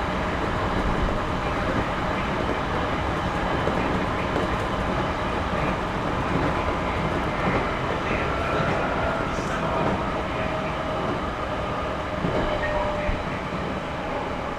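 Interior running sound of a JR Series 211-5000 electric multiple unit on the Tokaido Line: a steady rumble of wheels on rail, with a faint tone sliding slowly downward in the second half.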